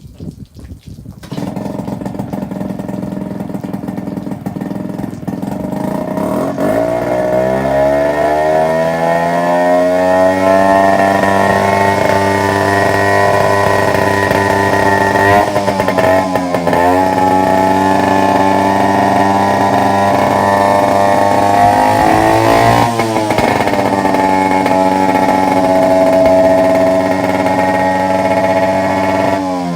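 Yamaha outboard motor starting about a second in and running at idle, then speeding up over a few seconds to a steady higher run. Its speed dips briefly a few times and starts to fall off near the end.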